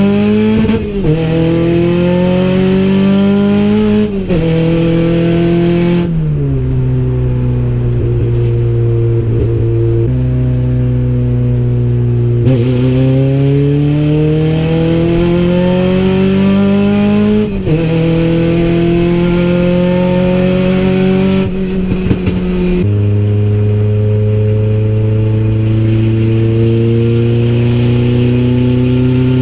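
Honda B16 1.6-litre inline-four in an EG Civic hatchback, heard from inside the cabin on hard acceleration pulls. The engine note climbs steadily and drops back sharply at each upshift, about five times, then holds high and steady near the end.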